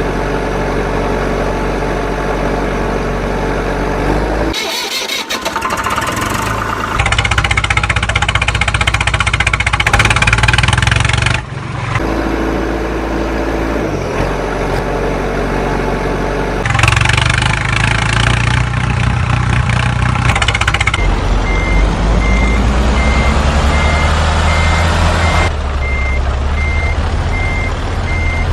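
Heavy truck engine running, in several abruptly cut segments, with a rise in engine pitch about two-thirds of the way through. From then on, a rapid series of evenly spaced high beeps like a reversing alarm sounds over the engine.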